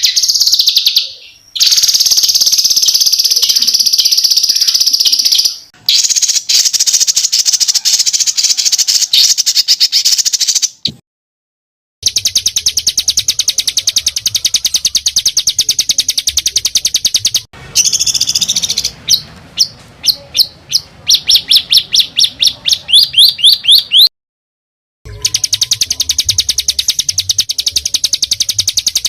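Songbird singing harsh, dense rapid trills of repeated high notes, in spliced stretches broken by short silences. Around twenty seconds in, the trill gives way to a run of separate sharp rising notes, several a second.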